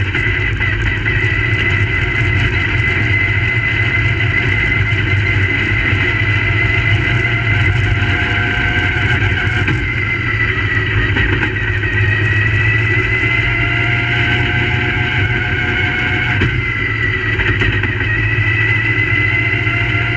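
Crate late model dirt-track race car engines running at speed. The pitch climbs gradually for several seconds and then drops off sharply, twice.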